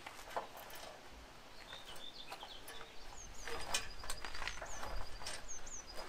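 Small birds chirping outdoors, short high notes repeated from about halfway through, over scattered faint clicks and knocks from hands working on a hay tedder.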